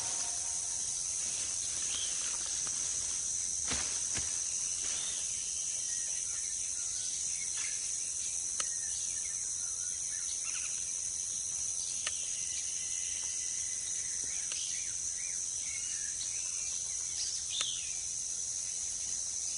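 Rainforest ambience: a steady, high-pitched drone of insects, with scattered short bird chirps and a few faint clicks.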